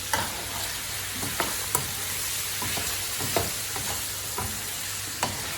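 Pork ribs sizzling as they fry in caramelizing sugar and oil in a pan, being stirred, with a utensil knocking sharply against the pan several times.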